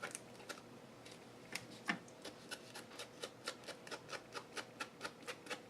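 Ink pad tapped quickly and repeatedly along the edge of a paper craft tag to ink it: light, even taps about four a second, with a couple of louder knocks near the start.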